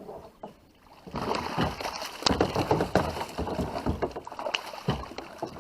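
Irregular splashing, knocking and rustling as a hooked catfish is hauled up out of the water beside a kayak, along with a tangle of limbs and branches snagged on the line. It starts about a second in.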